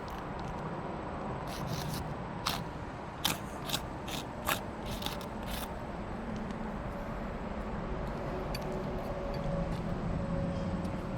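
A marker scratching short strokes across asphalt roof shingles, several quick marks in a row, then stopping about halfway through. Steady outdoor background noise throughout, with a faint low hum near the end.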